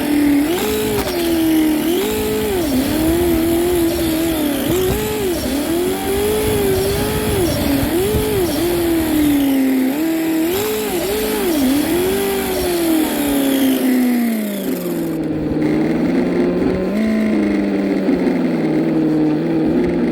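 Remote-control car being driven, its engine-like drive sound rising and falling in pitch with repeated throttle blips, then settling to a lower, steadier tone about fourteen seconds in.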